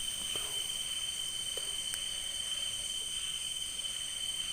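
Night insect chorus, crickets chirring in several steady high pitches that overlap, with a few faint ticks.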